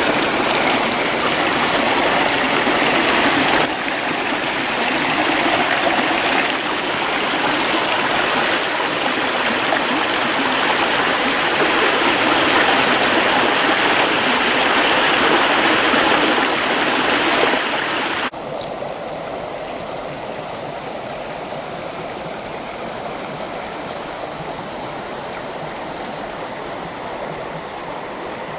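Creek water running steadily over rocks, an even rushing and gurgling. About two-thirds of the way through it suddenly becomes quieter and duller.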